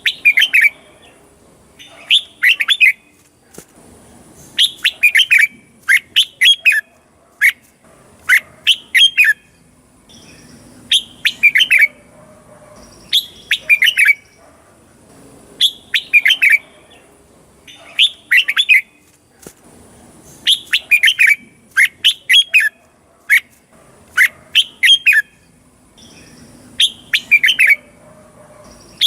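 Red-whiskered bulbul singing: short, bright phrases of a few quick whistled notes, repeated every second or two with brief pauses between them.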